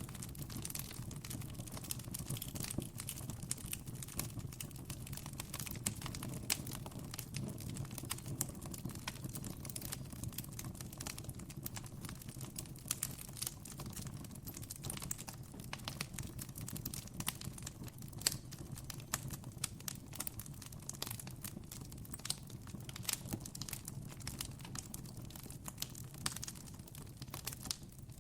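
Campfire crackling: wood burning with frequent small, irregular pops and snaps over a steady low hum.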